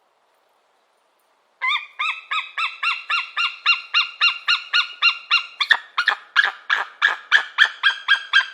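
A bird calling in a fast, even series of pitched notes, about four a second, starting a couple of seconds in. The notes turn harsher over the last few seconds.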